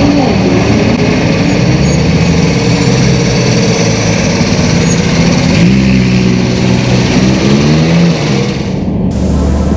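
Lamborghini Huracán's V10 engine running at low speed with light throttle blips: the revs fall right at the start and rise again about six seconds in before dropping back. The engine sound cuts off abruptly near the end.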